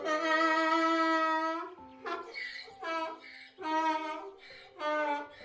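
An animal calling over calm background music with held notes: one long drawn-out call, then four shorter calls.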